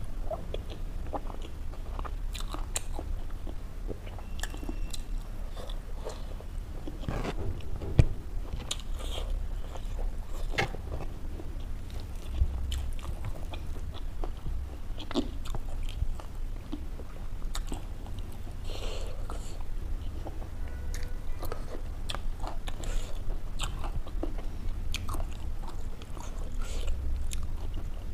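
Close-miked chewing and biting of a meal of rice and smoked pork curry eaten by hand, with many small crunches and clicks and one sharp click about eight seconds in. A steady low hum runs underneath.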